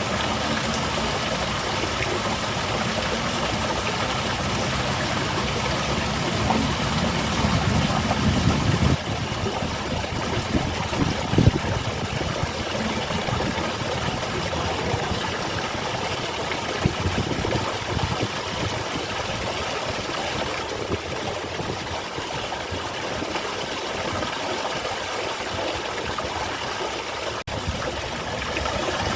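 Small garden waterfall: water falling and splashing in a steady rush, with a low rumble swelling for a few seconds about a quarter of the way in.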